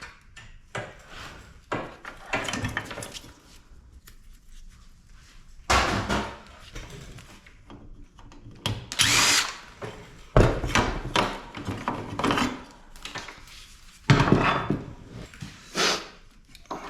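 Power drill run in repeated short bursts, used in getting a motor off a scrap air-conditioning unit.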